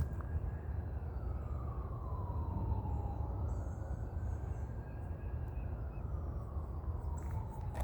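Emergency vehicle siren wailing in slow falling and rising sweeps: down for about three seconds, up again, then down once more. A steady low rumble runs underneath.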